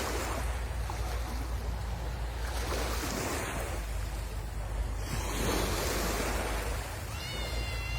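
Sea waves washing onto the shore in slow swells, with wind rumbling on the microphone. Near the end a brief high-pitched call cuts in over the surf.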